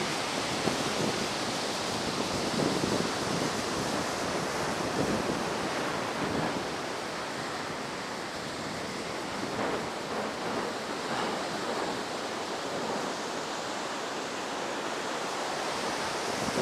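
Ocean surf running steadily, with high waves stirred up by a passing typhoon, and wind buffeting the microphone.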